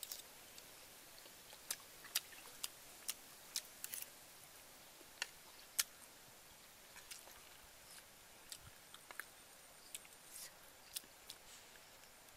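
Close-up eating sounds: a person chewing a mouthful of fried egg, with sharp, irregular clicks of mouth sounds and a metal spoon against a plate, over a quiet background.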